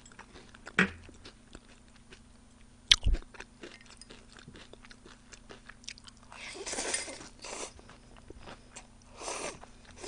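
Close-miked chewing and biting of fried chicken and sliced onion, with many small wet clicks and light crunches. A sharp click comes about three seconds in, and louder, longer noisy passages come around six to seven seconds in and again near the end.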